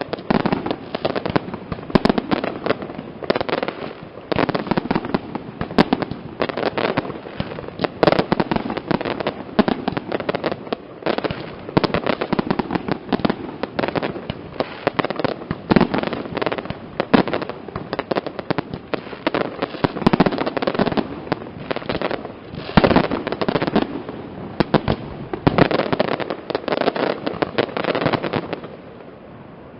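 Fireworks display going off: a dense, continuous barrage of rapid bangs and crackling. It eases off briefly near the end.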